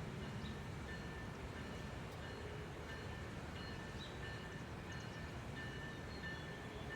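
Faint low rumble of an approaching train, with a railroad grade-crossing warning bell ringing in short repeated dings.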